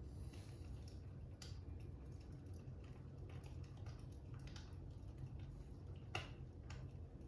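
Fire crackling, faint: scattered irregular pops over a steady low rumble, the sharpest pop about six seconds in.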